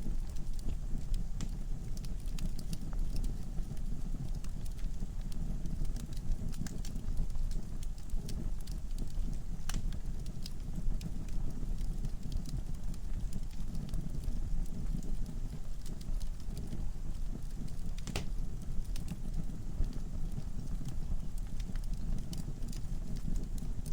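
Wood fire burning in a fireplace: a steady low rumble of flames with scattered sharp crackles and pops from the logs, two louder pops about ten and eighteen seconds in.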